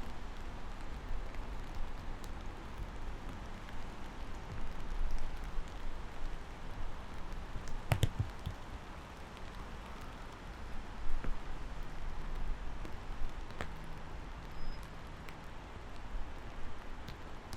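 Steady rain falling, with scattered close drops ticking on a surface. One sharper, louder drop-like knock about eight seconds in.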